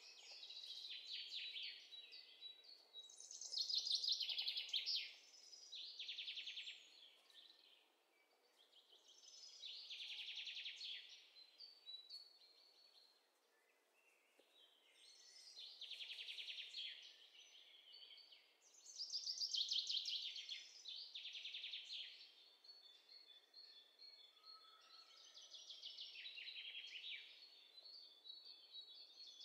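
A small bird singing faintly: bursts of fast, high trills with a few held notes, each a second or two long, repeating every few seconds with short pauses.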